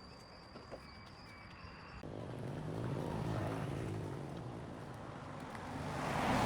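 Road traffic: vehicles passing close by, the rumble swelling and fading twice, about a second in after the change and again near the end. Before that, a quieter stretch holds a steady high tone and a few light clicks.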